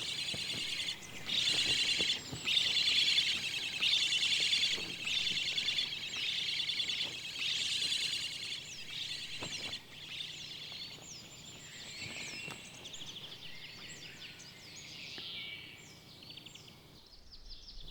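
Birds calling: bursts of rapid, high chirping repeat about once a second for the first half, then thin out into scattered single chirps and short falling notes.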